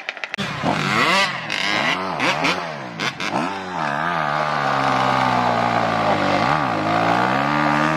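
Dirt bike engine revving in a series of quick blips, then held at steady high revs with a short dip around six and a half seconds in.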